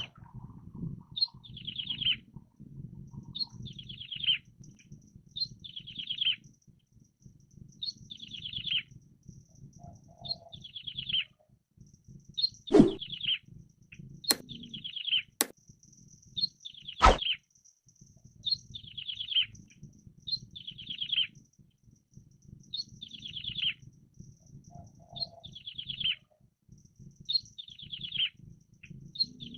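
Prinia (ciblek) singing short trilled phrases that fall in pitch, one roughly every second and a half, with a faint high thin call behind and a low background rumble. Four sharp clicks come near the middle, two of them louder than the song.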